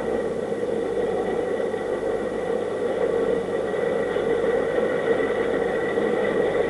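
A steady mechanical whir with a thin steady high tone, unchanging throughout.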